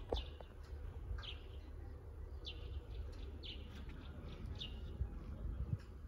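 A bird calling with short, high, falling chirps, repeated regularly about once a second, over a steady low rumble.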